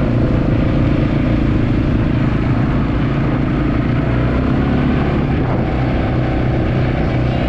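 Quad bike (ATV) engine running steadily while under way.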